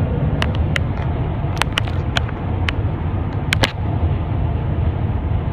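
Car driving: a steady low rumble of road and engine noise, with a scatter of sharp clicks through the first four seconds.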